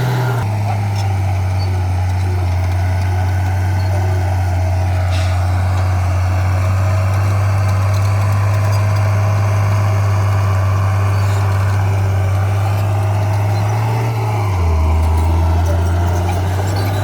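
Diesel engine of heavy earthmoving machinery running steadily at a low, even note. Near the end the engine note drops lower for about two seconds, then comes back up.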